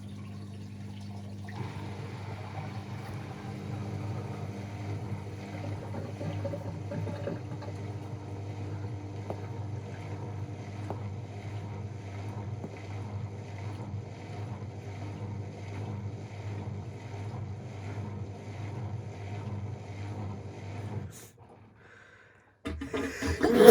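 AEG Protex Plus front-loading washing machine running at the start of its final spin phase: a steady motor hum with water sounds. It cuts off suddenly about 21 seconds in.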